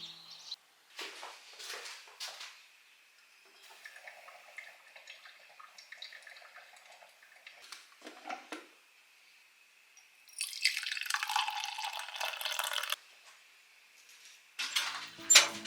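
Water dripping and splashing in short spurts, then running steadily for a couple of seconds about ten seconds in, with a few sharp clinks near the end.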